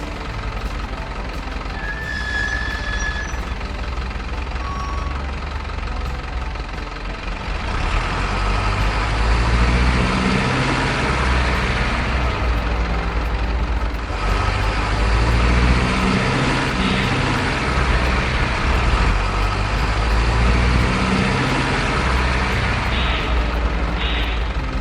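Truck engine sound running continuously with a low rumble and a noisy hiss, getting louder and rougher about eight seconds in.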